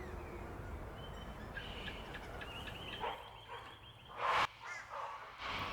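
A sulphur-crested cockatoo gives a loud, harsh screech about four seconds in, after a shorter one a second earlier, over faint chirps and a thin trill from smaller bush birds.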